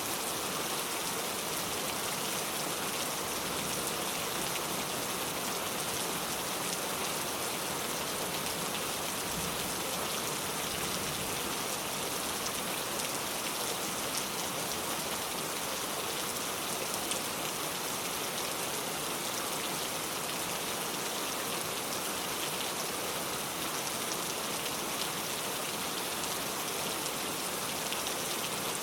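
Steady rain falling, a constant even hiss of many drops hitting a surface.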